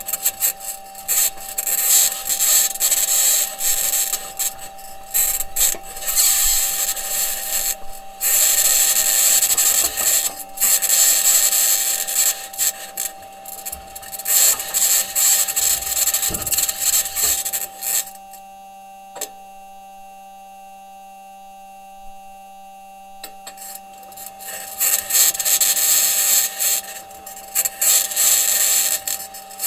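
Perseverance Mars rover driving: a rough grinding and high-pitched scraping from its wheels and suspension working over the ground, with a steady tone underneath. About eighteen seconds in, the scraping stops for some five seconds, leaving only the tone, then starts again.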